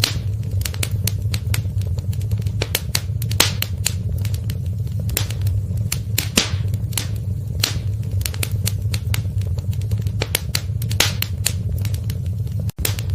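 Wood fire crackling in a fireplace, with irregular sharp pops and snaps over a steady low rumble. The sound drops out for a split second near the end.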